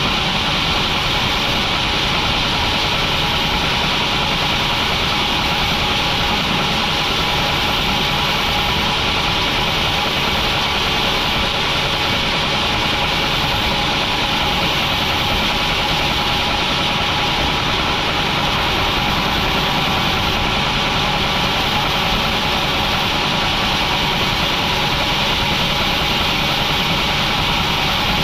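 Industrial sawmill machinery running steadily: a continuous mechanical hum with several constant tones, without pauses or distinct impacts.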